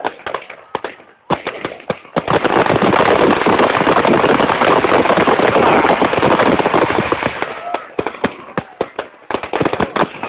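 Fireworks going off: a run of sharp cracks and bangs, then from about two seconds in a dense, loud crackling barrage lasting about five seconds, easing back into scattered cracks near the end.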